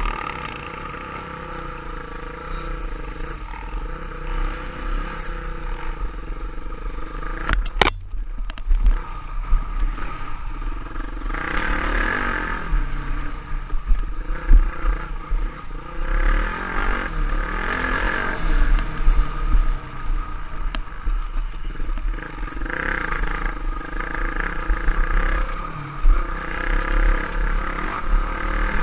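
Trail bike (enduro motorcycle) engine being ridden, its note rising and falling with the throttle, with a sharp click about eight seconds in.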